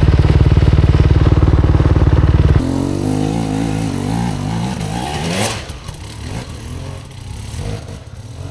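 Off-road dirt bike engine running loud and steady close by, then abruptly dropping away about two and a half seconds in to a quieter engine note that rises and falls in pitch and fades toward the end.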